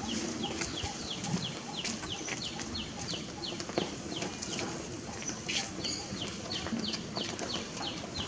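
Outdoor ambience with a bird calling a rapid, regular series of short, high, falling chirps, about three a second.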